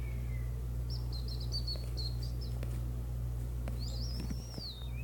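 A bird chirping: a quick run of short high chirps about a second in, then a longer whistled note that rises and falls near the end, over a low steady hum.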